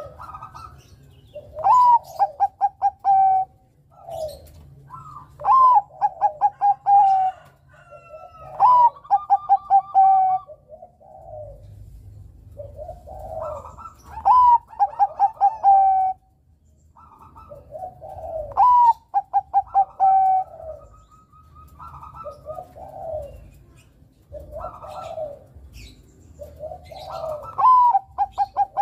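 Bangkok-type zebra dove (perkutut) singing its cooing song over and over. Each phrase, every few seconds, is a soft coo, a rising note, then a quick run of short clipped notes ending on a longer one, with softer coos in between.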